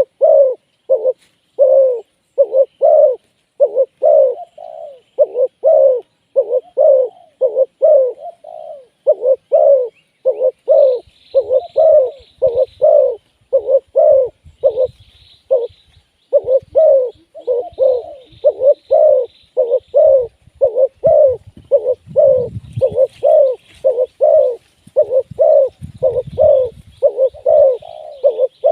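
Spotted doves cooing in a fast, unbroken series of short low coos, about two a second. From about eleven seconds in, faint high chirps and low rumbling noise come in under the coos.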